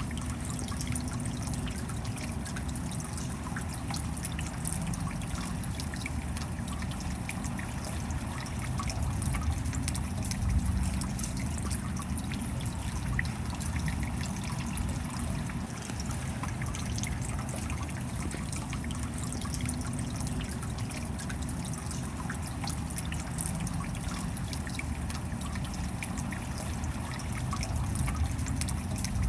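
Steady rain with water trickling and dripping: a dense patter of drops over a low rumble.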